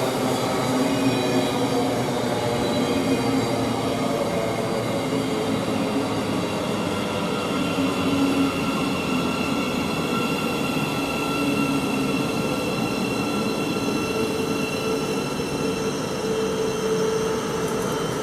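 Thameslink Class 700 electric multiple unit at close range, giving a steady electric hum and whine with several held tones that come and go.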